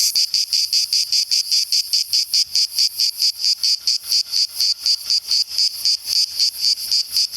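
Cicadas singing, a loud, shrill rhythmic pulsing of about five to six pulses a second.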